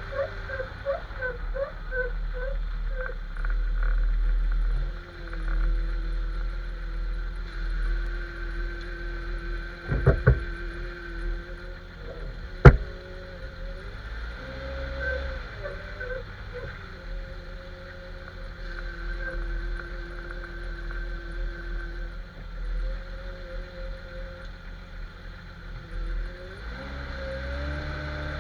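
Jeep Cherokee XJ being driven: a steady low running rumble with whining tones, a quick run of squeaks near the start, a few knocks about ten seconds in and one sharp clunk shortly after. This is the front-end noise the owner is hunting, which he suspects comes from a front U-joint.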